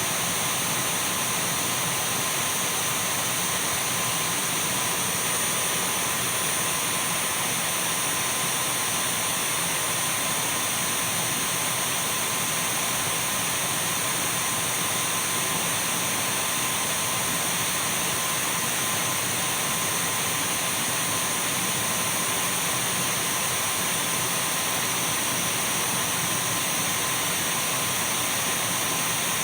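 Dyson V12 cordless stick vacuum cleaner running steadily: an even whooshing hiss of rushing air with a steady high motor whine.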